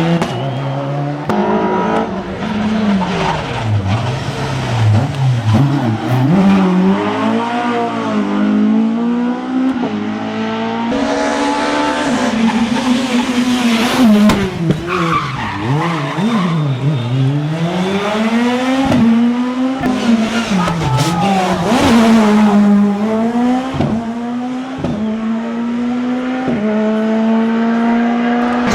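Rally car engines revving hard on a stage, the pitch climbing and dropping again and again as the drivers go on and off the throttle and shift gears. Several rising steps near the end mark upshifts, with tyre noise underneath.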